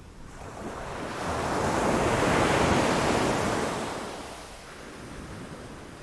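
Ocean wave breaking against rocks: the surf swells up, peaks about two to three seconds in, then washes back down to a lower hiss.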